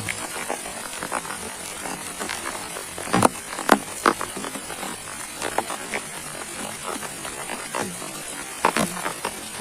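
Steady rain hiss with irregular heavy drops striking close by, about one or two sharp hits a second, some louder than others.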